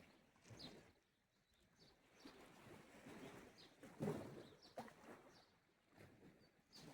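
Faint, gentle sea waves lapping on the shore in soft swells, a little louder about four seconds in, with a bird chirping faintly now and then.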